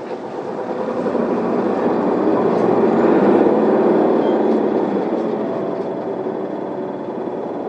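Isuzu Elga city bus heard from inside the cabin, its diesel engine and drivetrain pulling away from a stop. The sound grows louder for the first three to four seconds as the bus accelerates, then eases off.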